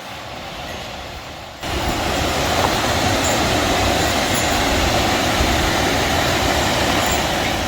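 Sheep River's water rushing, a steady loud rush that steps up suddenly about a second and a half in from a quieter flow.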